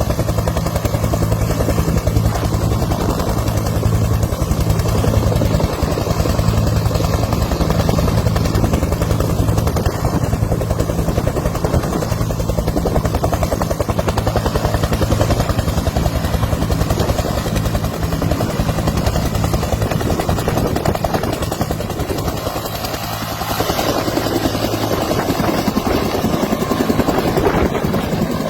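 Helicopter running close by: rapid, steady chop of the rotor blades over a steady low engine hum.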